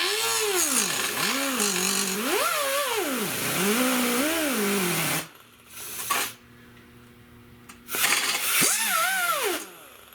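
Handheld power tool cutting into a plastic taillight lens, its motor pitch rising and falling as it loads and frees up, over the hiss of the cut. It runs about five seconds, stops, then runs again briefly near the end.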